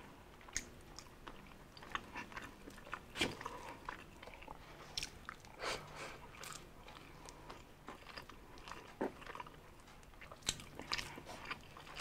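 Close-up chewing of roast pig (lechon) meat eaten by hand: irregular wet mouth smacks and clicks.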